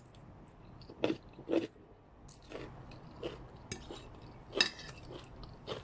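Close-up chewing of stir-fried egg noodles with crunchy vegetables: irregular wet crunches, about one a second, the loudest about four and a half seconds in.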